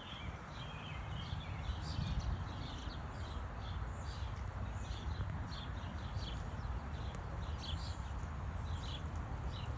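Small songbirds chirping: many short, high chirps from several birds overlapping throughout, over a steady low rumble.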